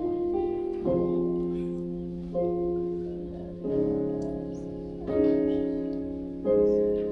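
Soft keyboard playing slow piano chords, a new chord struck about every second and a half, each one fading before the next.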